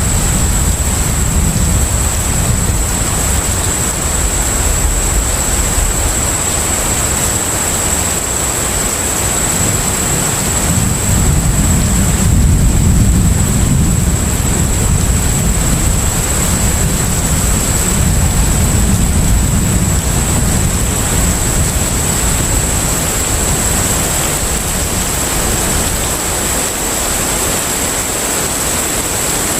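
Container ship at sea ambience: a steady low rumble that swells and eases under an even hiss of water, with a thin steady high whine running through it.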